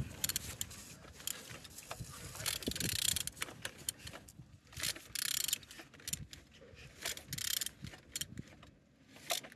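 Opel Z18XER 1.8-litre four-cylinder petrol engine being turned over by hand with a tool: irregular metallic clicks and scraping in short bursts. The engine turns freely rather than being seized.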